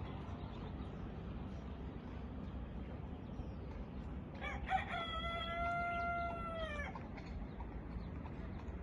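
A rooster crows once about halfway through: a short broken opening, then a long held note that drops at its end. There is a steady low background hum throughout.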